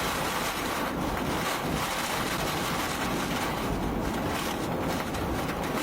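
Tornado wind and heavy rain: a steady, even rush of noise with no let-up.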